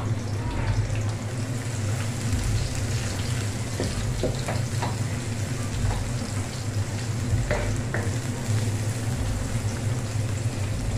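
Sliced onion and garlic sizzling in hot oil in an aluminium wok, stirred with a wooden spatula that scrapes and taps against the pan now and then, over a steady low hum.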